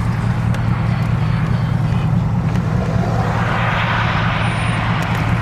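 Car moving slowly: a steady low engine rumble with road noise, and a rushing sound that swells and fades between about three and four and a half seconds in.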